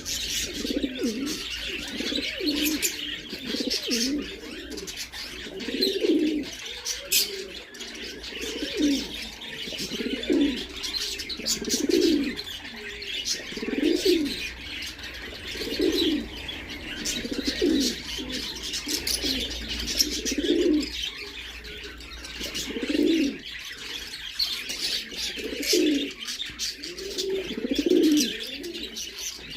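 Domestic pigeons cooing over and over, one low coo every second or two, over a constant high chirping and twittering of birds.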